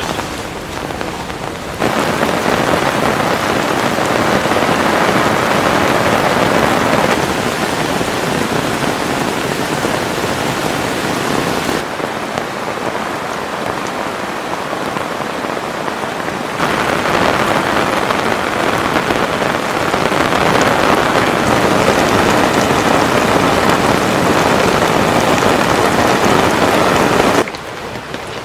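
Heavy rain pouring down. It grows abruptly louder about two seconds in, drops back about twelve seconds in, and surges again a few seconds later before dropping near the end.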